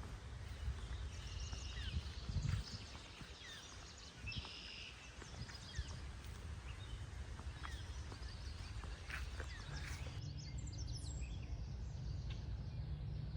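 Outdoor ambience: scattered bird chirps and short calls over a low rumble. About ten seconds in, the background changes to a steadier low hum.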